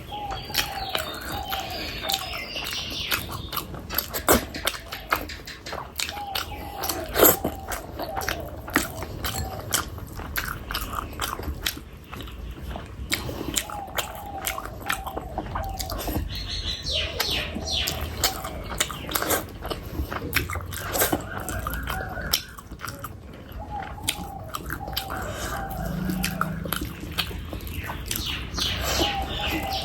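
Close-miked wet chewing and biting of curry and rice, with a constant stream of quick, irregular mouth clicks and smacks.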